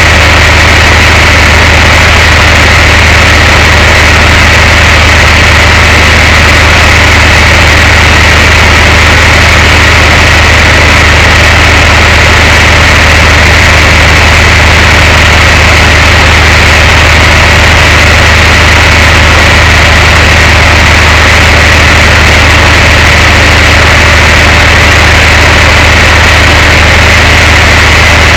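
Tow truck's engine running steadily, heard as a loud, unchanging low drone picked up by the truck's mounted camera microphone.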